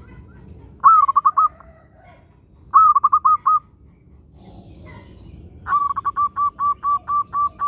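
Zebra dove (perkutut) singing: three phrases of quick, evenly spaced cooing notes, the third the longest at about ten notes.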